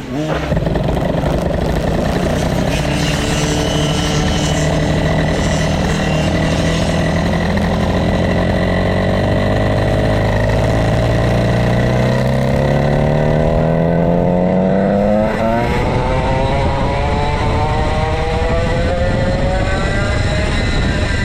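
Vintage go-kart's 135cc Sudam engine running loud, jumping up in level about half a second in. Its pitch climbs slowly as the kart gathers speed, drops briefly about two-thirds of the way through, then climbs again.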